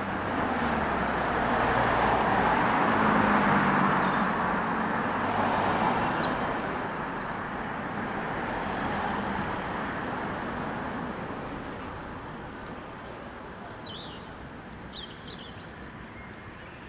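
A motor vehicle passes, its engine and tyre noise swelling to a peak about three seconds in, then fading away. Birds chirp faintly in the background, a few calls midway and more near the end.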